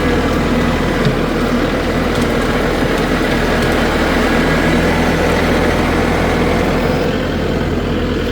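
Kubota tractor's diesel engine running steadily at a constant pitch.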